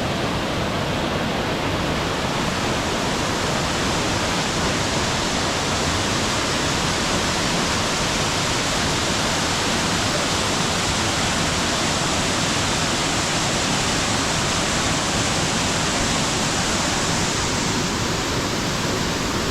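Waterfall on Lewis Creek, its falling water making a steady, even rush that does not change.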